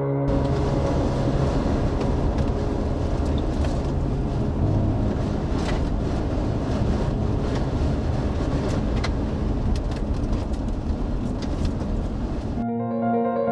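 Steady rumbling road and wind noise of a moving car, with scattered short crackles. It cuts off suddenly near the end as background music returns.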